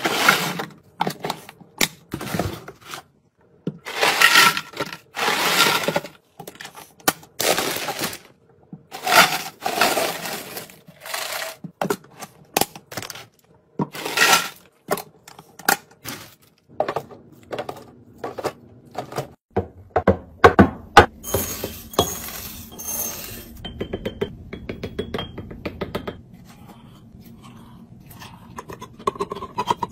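Food packaging and kitchen containers being handled and set down while restocking a fridge and pantry: a long run of short clatters, rustles and clinks, with a steadier stretch of noise a little after the middle.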